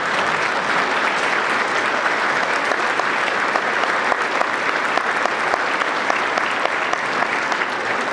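An audience applauding steadily in a large hall, a dense patter of many hands clapping.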